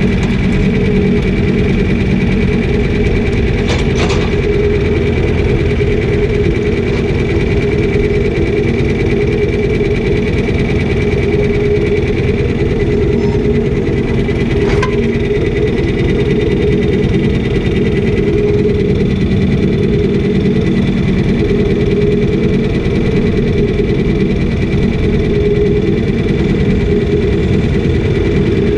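Engine of farm machinery spreading chicken litter, running steadily with a steady high whine over it. Two short clicks, one about four seconds in and one about halfway through.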